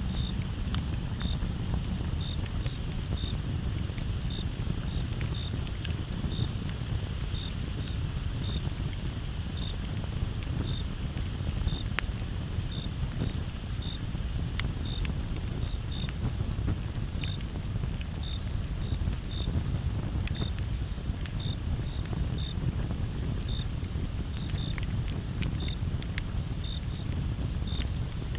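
Campfire crackling, with frequent small pops over a low steady rumble of the burning wood. Crickets trill steadily in the background, and one chirps in short pulses about once or twice a second.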